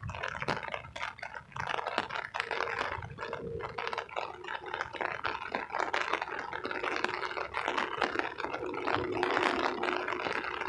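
Rain falling, with many small, irregular drop ticks close to the microphone.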